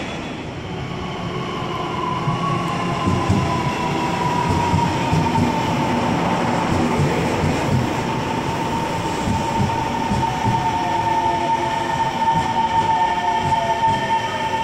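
Train running on the line at a station, its rumble growing louder about two seconds in, with a steady high whine over it and a second tone sliding down in pitch near the end.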